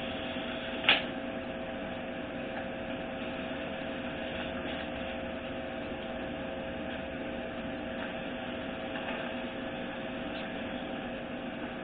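Steady electrical hum with two steady tones, broken by one sharp click about a second in and a few faint light clicks later, as parts or tools are handled.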